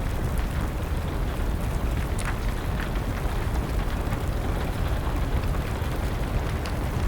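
Wood fire burning with a steady low rumble and a few sharp pops and crackles, with rain falling in the background.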